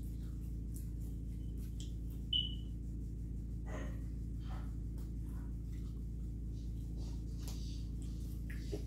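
Steady low room hum with faint mouth sounds of pizza being chewed, and one short high-pitched beep about two and a half seconds in.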